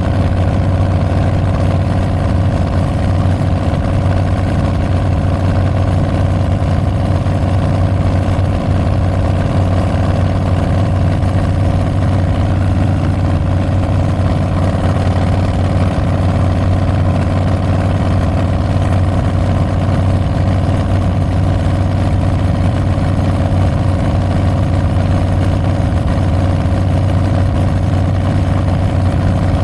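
2022 Harley-Davidson Street Bob's Milwaukee-Eight 114 V-twin running through Tabs Performance slip-on mufflers with Zombie baffles, holding a steady engine speed with a deep, even exhaust note and no revving.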